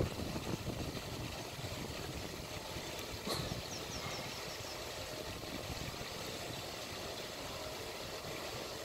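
Steady low rumble, engine-like, at a moderate level. About three seconds in there is a short tap, followed by a quick run of about six high, falling chirps from a small bird.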